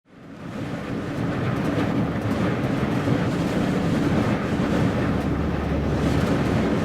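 Heavy wind noise on the microphone from a strong gale, a dense steady rumble that fades in over about the first second.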